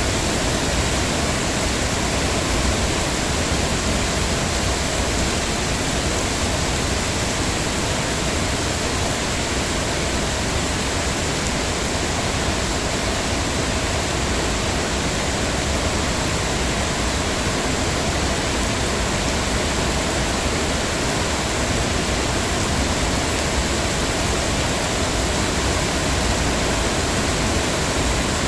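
Heavy rain falling steadily, an even, unbroken hiss with no single drops standing out.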